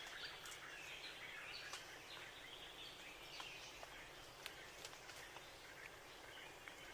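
Faint background birds chirping and twittering, with a few faint clicks.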